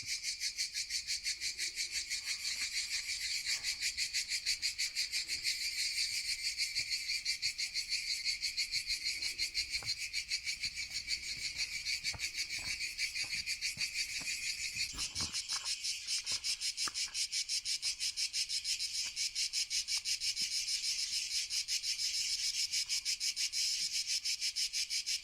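Cicadas singing in a dense, rhythmic chorus of fast pulses, with a few faint clicks about halfway through.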